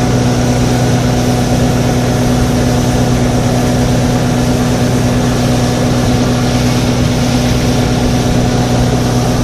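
A small motorboat's engine running steadily at an even pitch, with a constant rush of wind and water.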